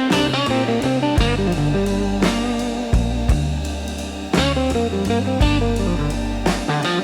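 Slow electric blues instrumental: electric guitar playing lead lines over bass and a drum kit.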